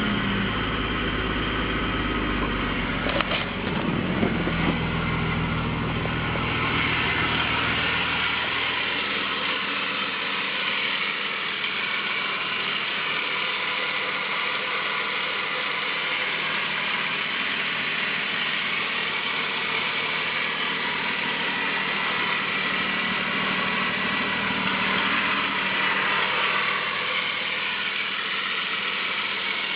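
BMW S52 3.2-litre inline-six in an E36 M3 idling. Its deep running note is strong at first and fades after about eight seconds, leaving a busy, rapid mechanical ticking from the engine.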